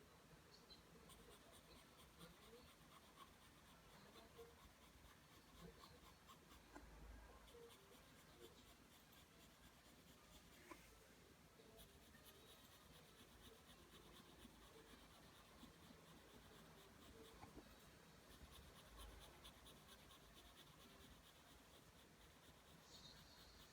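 Pencil drawing lines on paper: a faint, steady scratching of graphite strokes.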